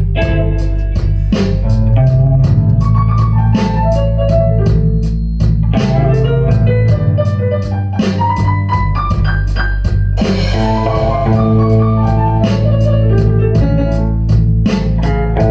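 A blues-rock band playing live: a keyboard with an organ sound over drums and bass, keeping a steady beat.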